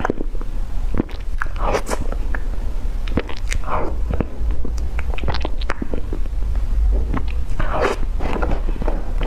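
Close-up mouth sounds of someone biting and chewing food: many small sharp clicks, with louder crunching bites about two seconds in, near four seconds and near eight seconds.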